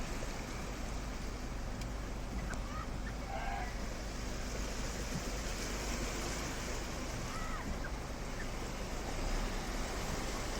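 Steady rushing noise of flowing floodwater, with a few short, faint calls over it about three seconds in and again near the middle.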